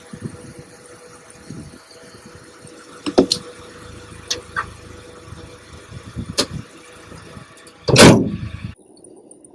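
1972 Buick Riviera's 455 V8 running, with a few sharp knocks and one loud thump about eight seconds in. Shortly after, the steady running sound cuts off abruptly.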